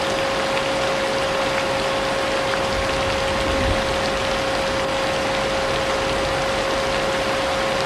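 Vacuum cleaner running steadily with a constant whine, layered with the even hiss of rain and a few faint drop ticks.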